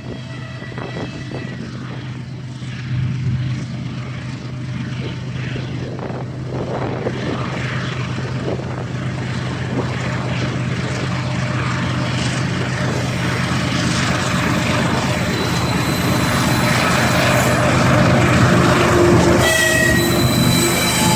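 TE33AC diesel-electric locomotives of a freight train approaching, the steady low drone of their engines and the rumble of the train growing steadily louder.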